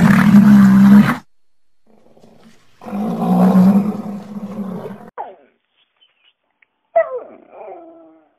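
Rhinoceros calls: two long, loud, deep bellows, the first about a second long and the second about two. Near the end comes a dog's short whine that falls in pitch.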